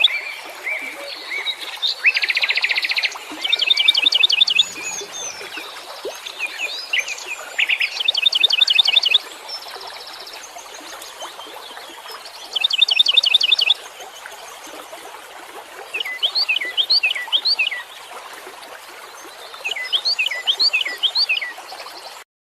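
Wild songbirds singing in bouts of rapid high trills and chirping note series, each a second or two long, over a steady background hiss; the sound cuts off suddenly near the end.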